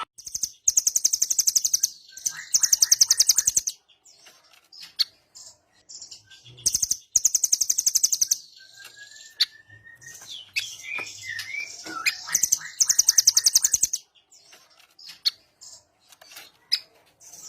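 Velvet-fronted nuthatch (rambatan) singing: several bursts of very rapid, high, rattling trills, each one to two seconds long with short pauses between, and a brief rising whistle partway through.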